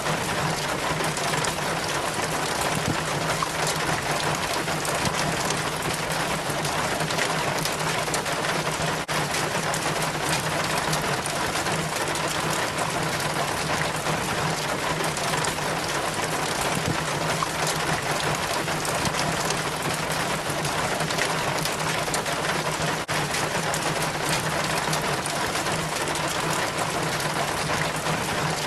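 Rainwater running down a rain chain from the gutter, trickling and splashing in a steady, dense patter of drops.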